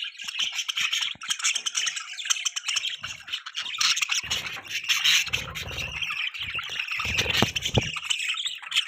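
Budgies chirping and warbling together in a fast, continuous high-pitched chatter.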